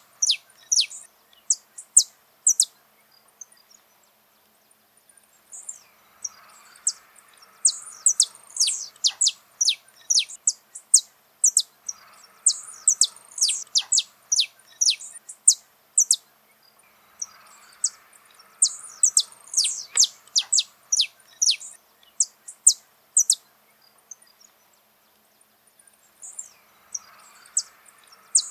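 Saffron finch (canário-da-terra) singing: bouts of rapid, high, sharp chirping notes, each bout a few seconds long, with short pauses between bouts.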